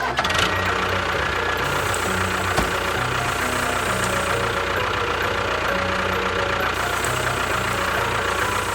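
A tractor-type engine running steadily without a break.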